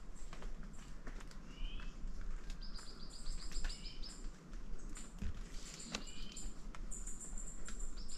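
Forest birds calling: a short call repeated about every two seconds, and a fast, high trill of about eight notes a second in the middle. Scattered sharp clicks and a steady low rumble underneath.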